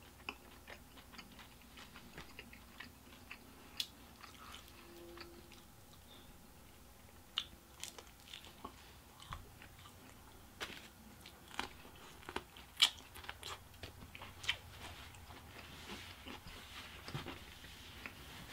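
A person chewing a mouthful of pizza close to the microphone: soft irregular crunches and wet mouth clicks, more frequent in the second half.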